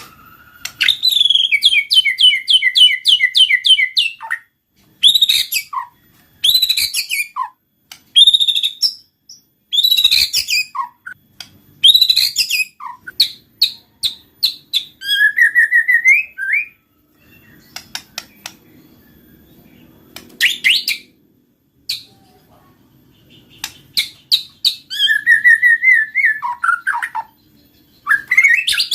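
White-rumped shama singing a loud, varied song of whistled glides and rapid repeated notes, delivered in bursts with short pauses between, with a quieter lull about two-thirds of the way through.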